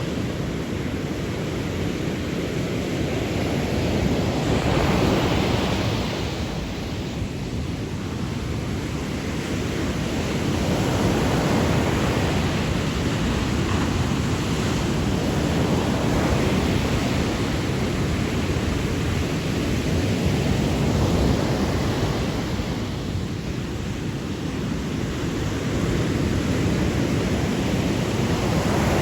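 Sea waves washing onto the shore, a continuous low rumble with the hiss of surf swelling and falling back every several seconds.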